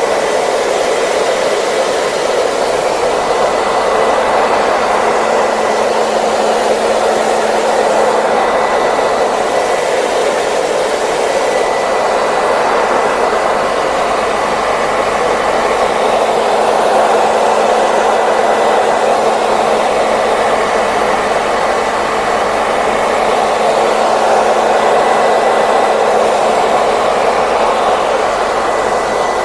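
Hair dryer running steadily, a continuous airy whoosh with a faint steady motor whine underneath.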